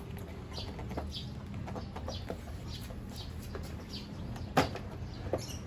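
Birds chirping: short high calls repeating about twice a second over a low steady hum, with one sharp click about four and a half seconds in.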